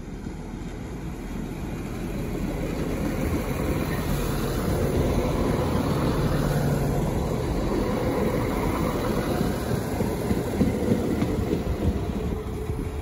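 Irish Rail 22000 Class diesel multiple unit passing through a station. The rumble of its underfloor diesel engines and wheels on the rails swells to a peak and then fades as it goes by, with a few sharp wheel knocks over the rail joints near the end.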